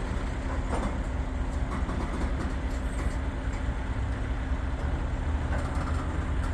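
Long freight train rolling slowly past at a crawl: a steady low rumble with a steady hum.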